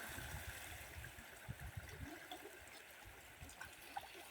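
Faint, steady rush of a flooded river flowing heavily.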